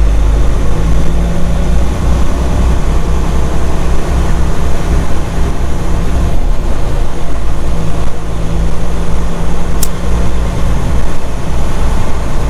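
Semi truck's diesel engine drone and road noise inside the cab while driving, a steady low hum.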